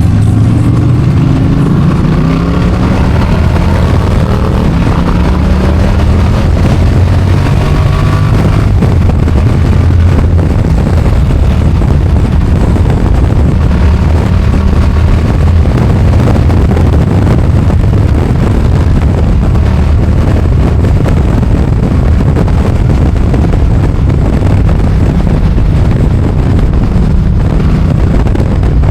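V-twin motorcycle engine under way, its pitch climbing in several steps through the gears over the first nine seconds or so, then running steadily at speed with wind noise.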